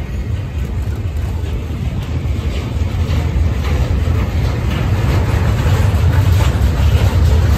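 Freight train rolling past, a steady low rumble that grows louder, with irregular rattling and clanking from the cars.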